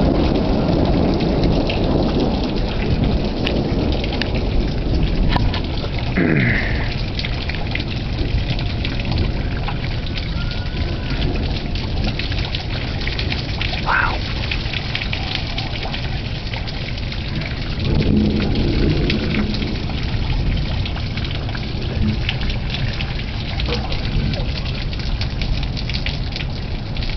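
Heavy rain falling steadily in a thunderstorm, with thunder rumbling loudest in the first few seconds and swelling again about two-thirds of the way through.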